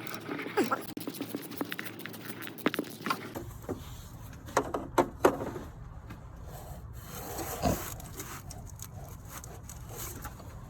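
Hand tools clicking, knocking and scraping on metal in irregular bursts as the bolt behind the alternator pulley is worked loose.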